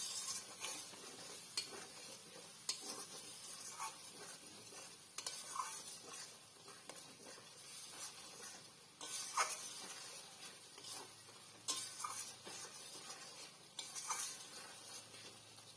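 Masala of onion, tomato, ginger-garlic paste and ground spices sizzling in an aluminium kadai, with a flat spatula stirring it and scraping the pan in irregular strokes. This is the masala being fried down with a little water until the oil separates.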